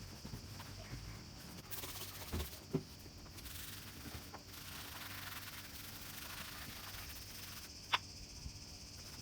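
A steady rubbing sound, like a surface being wiped or polished by hand, with a few light knocks and one sharp click about eight seconds in.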